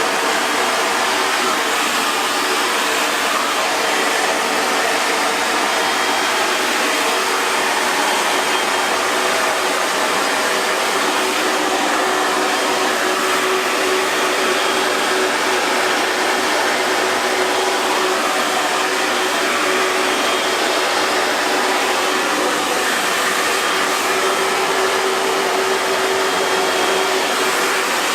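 Hair dryer running continuously with a steady rushing hiss of blown air and a faint constant motor hum.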